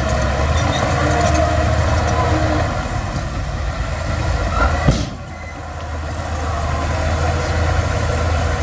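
Heavy diesel earthmoving machinery engine running steadily with a deep rumble. About five seconds in there is a single sharp clank, after which the engine briefly quietens and then builds up again.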